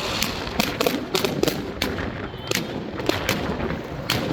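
New Year fireworks display: a rapid, irregular string of sharp bangs and cracks, about three a second, over a constant rumbling background.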